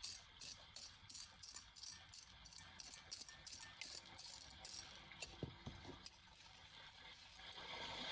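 Quick, irregular clicking and rattling of small hard objects being handled, with the wash of the sea rising near the end.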